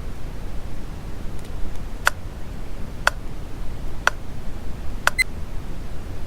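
Timer alarm beeping four times, about a second apart, over steady brown noise: the signal that a pomodoro work session has ended.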